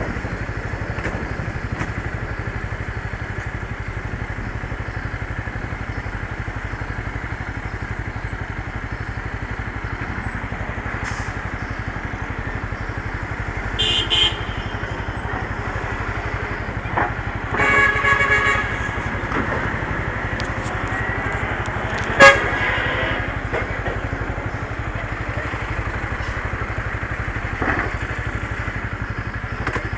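Motorcycle engine running at a steady pace with road and wind noise. A short beep about halfway through, then a vehicle horn honking for about a second. A single sharp click a few seconds later is the loudest sound.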